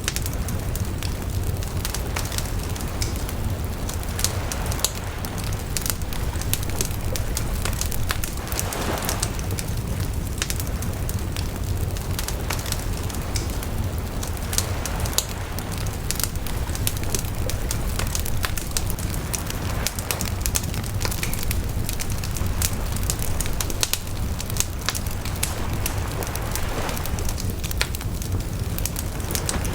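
Bonfire burning, with dense, irregular crackles and sharp pops from the wood over a steady low rush of the flames. Brief swells of rushing come twice, about nine seconds in and near the end.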